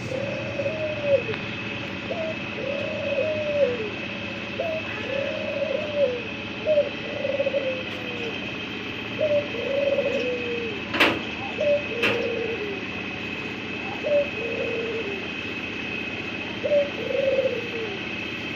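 White dove cooing over and over, each coo an arched call rising and falling, about a second long and coming every second or two. A steady high whine runs behind it, and two sharp clicks come about a second apart a little past the middle.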